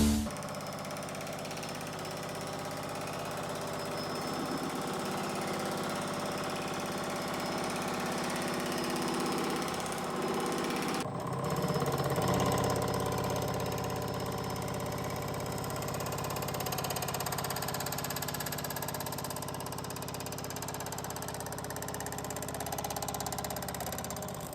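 Grizzly G0996 power hammer running, its ram and dies hammering in a rapid, steady rhythm. The sound breaks off briefly about eleven seconds in, then carries on a little louder.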